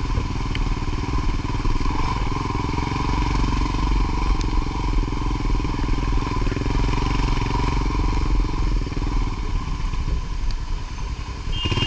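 Motorcycle engine running steadily while riding, under a continuous rush of noise, easing slightly near the end.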